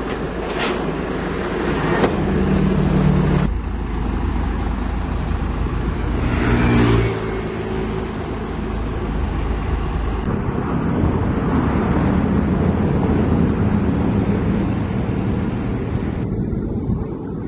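Heavy diesel engine running under load, with a few sharp ticks in the first two seconds and a rev that rises and falls about six seconds in; the sound changes abruptly a few times.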